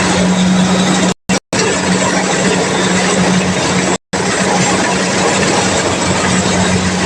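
Kubota DC-70 combine harvester's diesel engine and threshing machinery running steadily: a loud, even mechanical noise over a constant low hum. It cuts to dead silence briefly twice about a second in and once about four seconds in.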